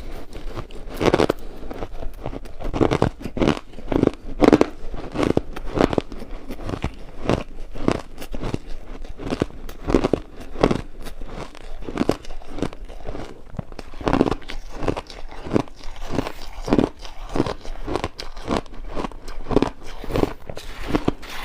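Ice being bitten and chewed: a continuous run of crisp crunches, about two a second.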